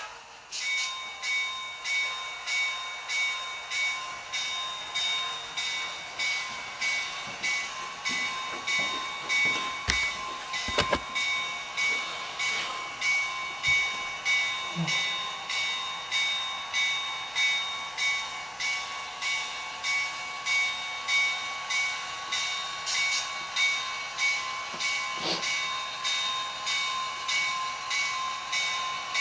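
Model train running on the layout track: a steady whine with a regular beat about twice a second and a few light knocks midway through.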